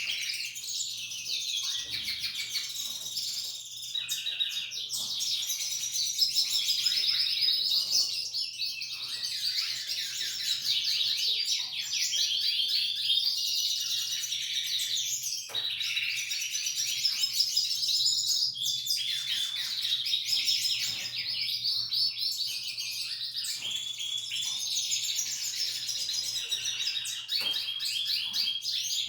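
Female Belgian canary singing: a continuous song of fast, high trills and warbling chirps with hardly a pause.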